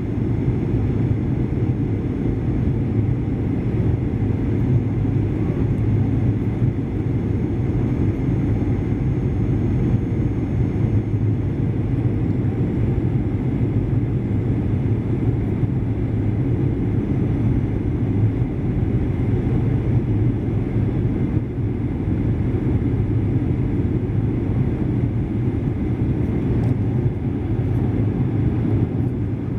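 Steady cabin noise inside a Boeing 737-800: an even low rumble of engines and airflow that does not change.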